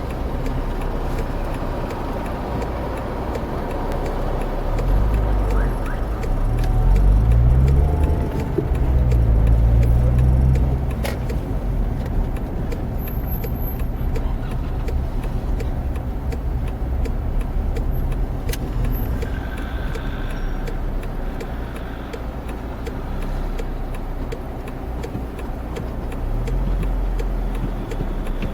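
A steady low engine rumble that swells and shifts in pitch twice, once around 5 to 11 seconds in and again near the end.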